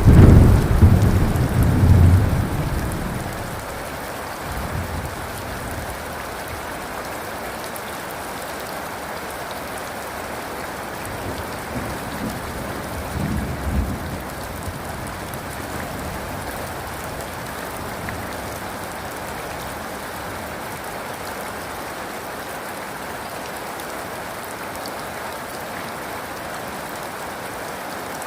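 Steady rain with a loud rumble of thunder right at the start that fades out over about four seconds, and a fainter, shorter rumble of thunder near the middle.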